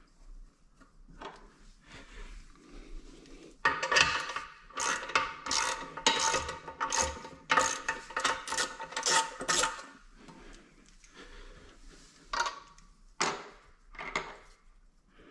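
Metal nuts and washers clicking and clinking as they are handled and threaded onto a toilet's bolts. The clicking comes in a quick, busy run with brief metallic ringing from about four to ten seconds in, then a few single clicks.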